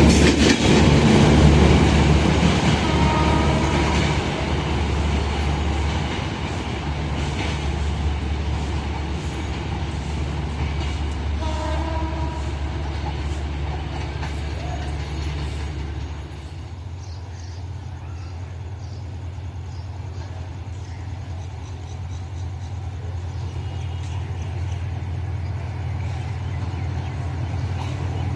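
A Bangladesh Railway diesel train runs past. It is loudest at the start and fades over the first quarter-minute into a steady low engine drone. A couple of brief horn tones sound about three and twelve seconds in.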